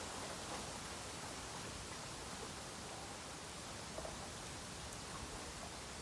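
Bamboo bonfire burning with a steady hiss and a few small crackles.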